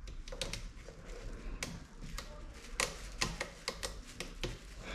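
Irregular light clicks and taps of plastic and metal parts of a car door's window regulator being handled and worked through the door, coming thicker about halfway through.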